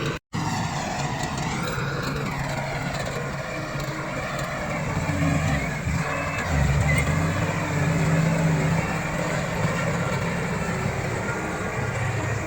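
Komatsu D68 bulldozer's diesel engine working under load, its pitch rising and falling as it pushes soil. A brief cut to silence comes just after the start.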